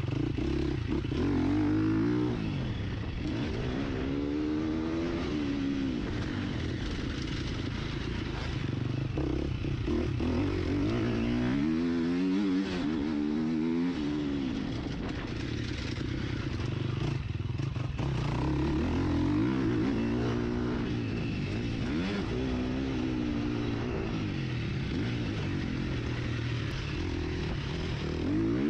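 Four-stroke 350 cc motocross bike (Husqvarna FC 350) ridden hard, recorded onboard: the engine revs up and drops back again and again as the rider accelerates, shifts and brakes round the track.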